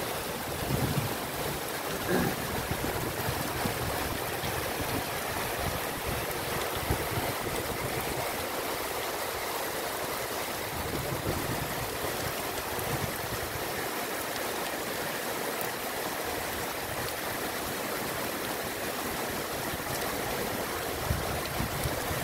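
Heavy rain falling steadily: an even, unbroken hiss of a downpour, with a few short low rumbles about a second in and near the end.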